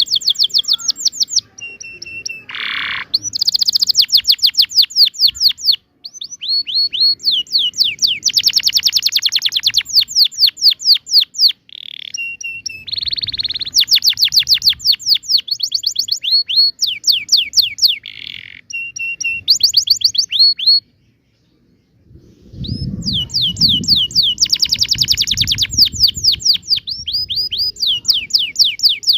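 Domestic canary singing a long song of rolling trills: fast runs of repeated high down-sweeping notes in phrases broken by short pauses, with a silent break of about a second and a half past the middle. A low rumble sits under the song just after that break.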